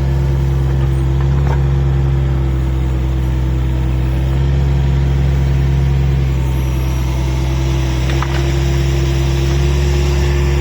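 Excavator engine running steadily under digging, with a few faint knocks from the machine.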